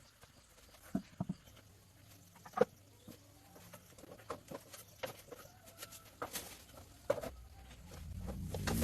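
Sparse light clicks and knocks of tools and metal parts being handled, with a low rumble building in the last second.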